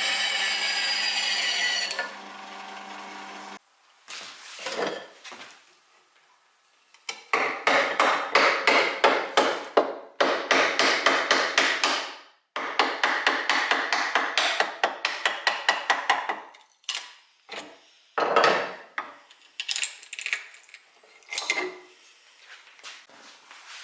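A power tool runs steadily, winds down and stops. Then come long runs of rapid, even knocking on wood, about four strikes a second, followed by a few scattered single knocks.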